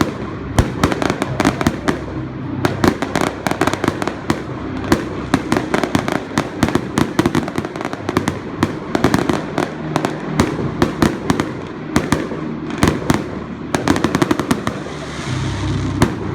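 Fireworks display: a rapid, unbroken string of sharp bangs and crackling reports, several a second, with a brief hiss near the end.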